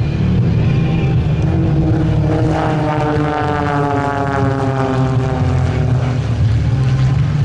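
Aerobatic propeller planes flying a low formation pass (a Calypso pass). Their engine and propeller drone slides down in pitch as they go by, over a steady low rumble.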